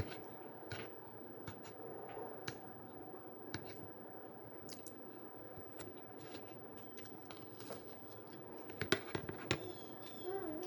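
Faint chewing of food close to the microphone, with scattered small clicks and smacks.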